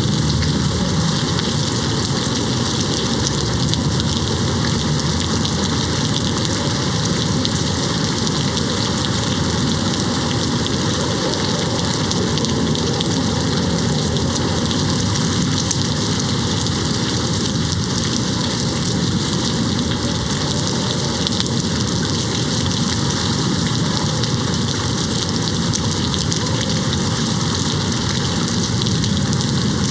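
Steady rain falling against a window: an even, unbroken hiss with no thunder.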